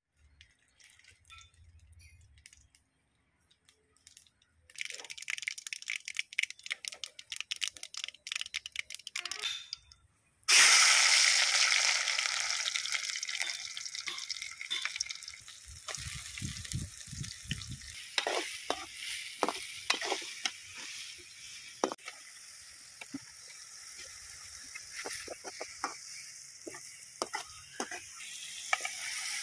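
Food frying in hot oil in a metal kadai over a wood fire. Rapid crackling and popping from about five seconds in, then a sudden loud sizzle about ten seconds in as chopped bottle gourd goes into the pan with a burst of steam. The sizzle slowly dies down to a steady frying hiss with scattered ladle knocks and scrapes.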